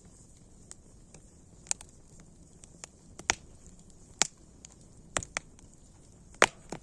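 Campfire crackling: irregular sharp pops and snaps over a faint steady hiss, the loudest pop near the end.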